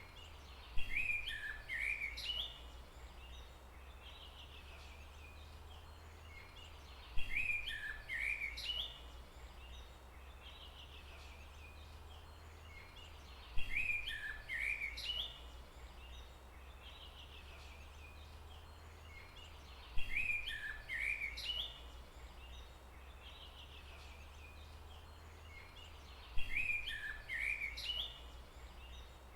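A bird's short chirping song phrase repeated five times, the same each time, about every six and a half seconds, over a steady low rumble.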